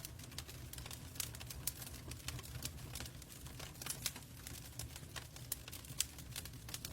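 Wood fire crackling in a fireplace: irregular sharp pops and snaps, several a second, over a steady low rumble of burning logs.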